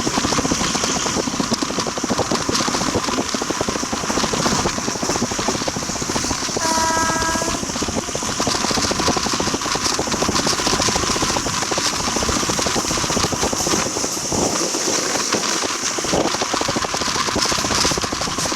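Steady rattling and rumbling of a moving train, with a short pitched whistle tone about seven seconds in.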